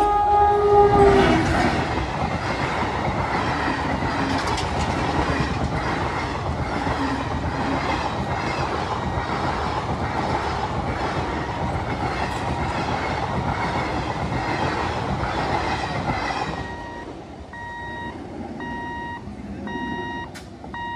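An Indian Railways express behind an electric locomotive passes close by. In the first second or so the locomotive's horn drops in pitch as it goes past. Then the sleeper coaches rumble by with a rapid clickety-clack of wheels on rail joints, which falls away about sixteen seconds in as the train clears. A short electronic beep then repeats about once a second.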